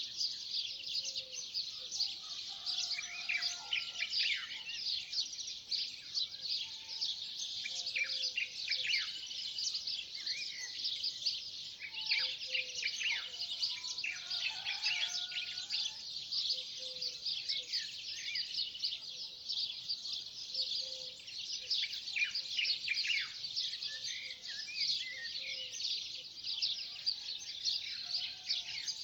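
Dawn chorus of many small songbirds chirping and trilling at once, dense and unbroken, with a short low call repeating every few seconds beneath it.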